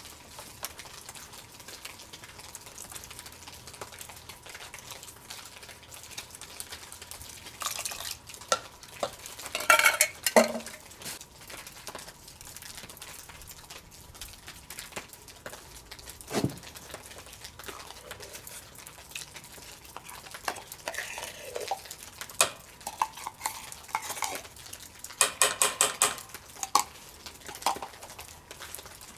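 A metal spoon stirring and scraping food in a metal cooking pot, with clusters of clinks about a third of the way in and again near the end.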